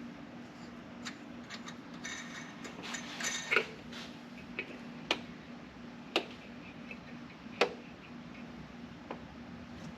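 Small clicks and taps from setting the air cleaner lid on its spacers and fastening the wing nut: a rattly cluster of clicks a couple of seconds in, then single sharp clicks about every second.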